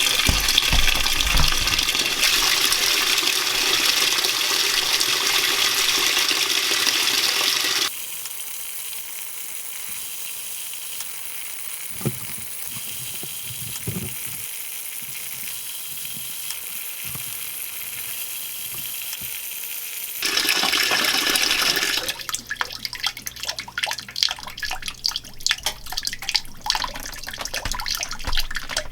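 Water pouring into the tub of an Admiral belt-drive top-load washing machine as it fills for the wash. The loud inflow cuts off abruptly about eight seconds in, leaving a quieter hiss with a few faint knocks, and returns about twelve seconds later, turning to irregular splashing near the end.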